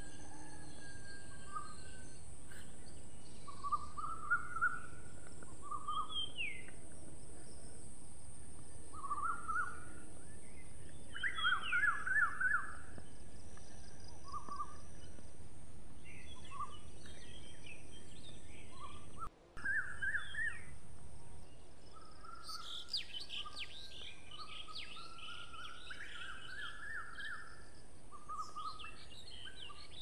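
Songbirds chirping and calling in short, repeated phrases over a steady background hiss. About two-thirds of the way through the sound drops out for a split second; after that the background is quieter and quicker, higher-pitched chirps crowd in.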